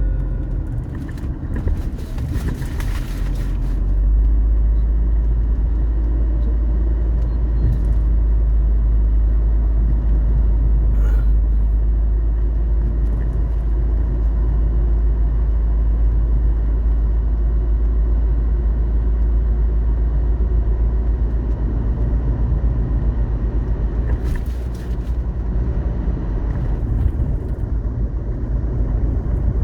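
Steady road-vehicle rumble with heavy low buffeting on the microphone, and two brief hissing swells, one about two seconds in and one later on.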